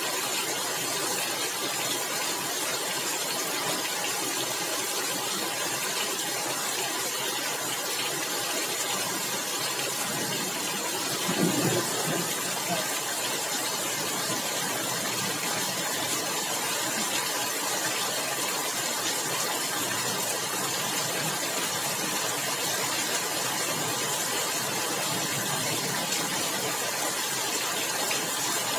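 Steady heavy rain pattering on clay roof tiles, an even hiss that holds at one level throughout. A brief low rumble rises and fades about eleven seconds in.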